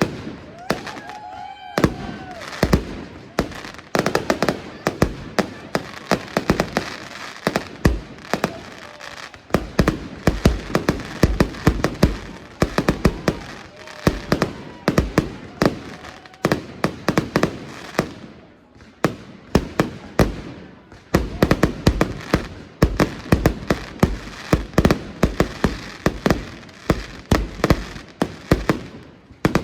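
Fireworks display at its height: aerial shells bursting in rapid, overlapping bangs, several a second, with crackle between them.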